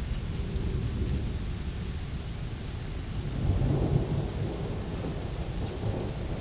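Thunder rumbling low and continuously under steady rain, the rumble swelling a little past halfway through.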